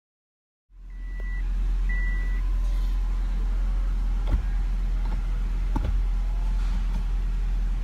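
2006 Subaru WRX's turbocharged flat-four engine idling, heard as a steady low hum inside the cabin, with two short high beeps about a second in. Two sharp clicks about a second and a half apart come from the manual gear shifter being moved through its gates, now on stiffer aftermarket bushings.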